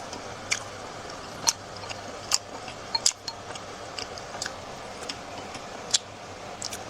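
Close-miked eating sounds: sharp, irregular mouth clicks from chewing, roughly one or two a second, over a steady low hum.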